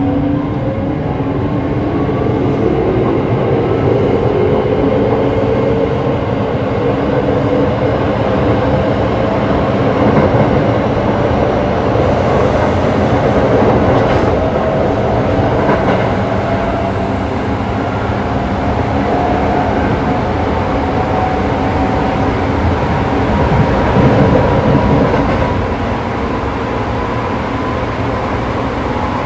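Electric train running on rails: a steady rumble of wheels and running gear, with the traction motors' whine climbing slowly in pitch as the train gathers speed, levelling off near the end.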